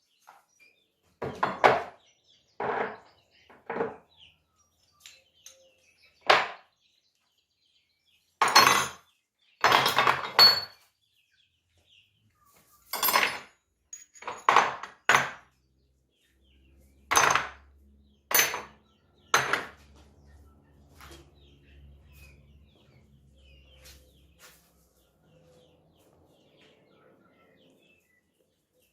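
Metal parts and tools clattering and clinking in a dozen short bursts as they are handled, followed by a faint low hum in the second half.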